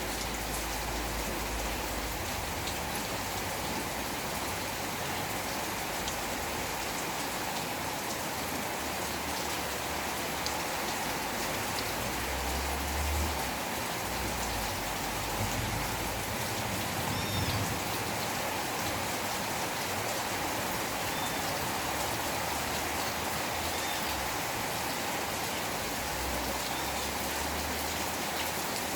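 Steady rain falling and pattering on surfaces, with a few faint low rumbles coming and going around the middle.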